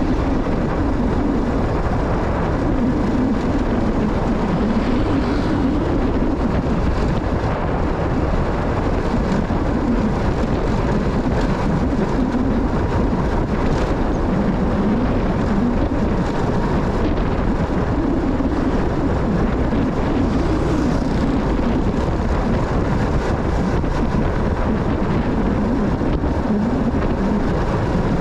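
Motorcycle running while being ridden: a steady engine drone whose pitch wavers up and down, under constant road and wind noise.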